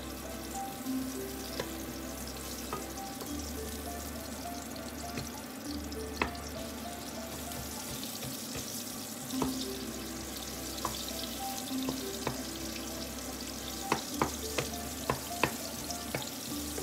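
Garlic and onion sizzling in hot oil in a frying pan as they are stirred with a wooden spatula. A quick run of sharp clicks comes near the end.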